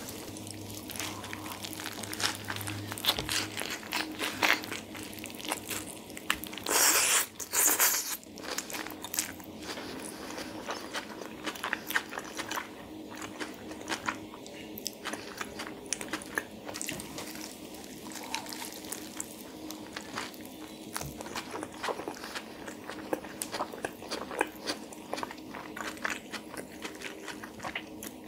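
Close-up eating sounds: a spicy chicken wrap with crisp lettuce being bitten and chewed, with steady wet crunching and mouth clicks. One louder bite comes about seven seconds in.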